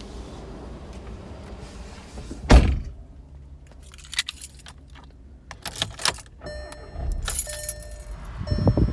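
Keys jangling with clicks and rattles of handling around a car, a heavy thud about two and a half seconds in, and a steady electronic tone sounding on and off over the last two seconds or so.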